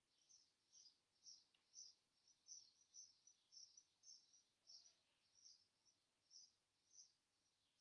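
Near silence, with a bird's faint, high chirps repeating about twice a second.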